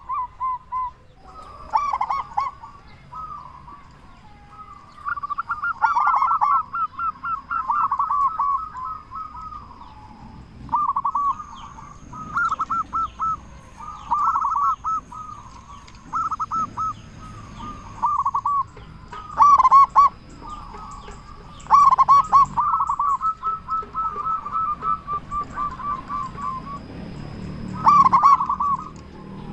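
Zebra dove (perkutut) cooing: repeated loud rolling phrases of quick notes, one after another with short pauses, some phrases overlapping.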